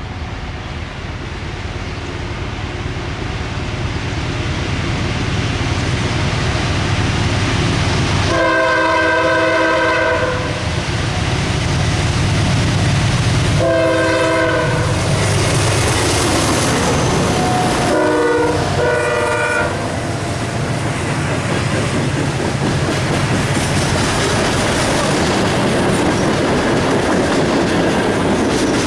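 CSX freight train approaching and passing: the locomotive's rumble grows louder over the first few seconds, then its multi-note chord horn sounds four times, long, shorter, short, then longer, close to the long-long-short-long grade-crossing signal. The wheels clatter steadily over the rails throughout.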